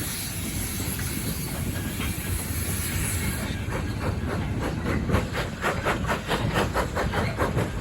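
Steam train on a heritage railway: a steady hiss of steam at first, then an even, rapid beat of about four strokes a second over a low rumble as the train runs.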